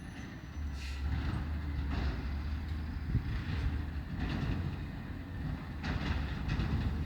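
Vehicle engine running with a steady low rumble that sets in about half a second in, with a few faint knocks over it.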